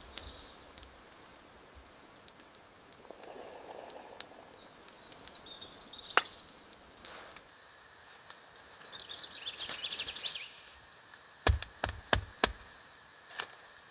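Forest ambience with birds chirping in short bursts and a few sharp knocks, four of them in quick succession near the end.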